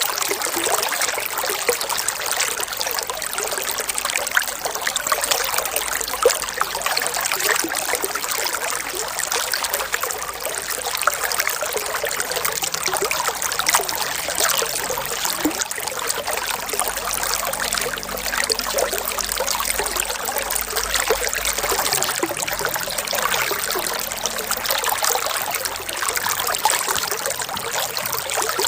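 Running water trickling and splashing steadily, a dense, unbroken wash of small splashes with little low rumble.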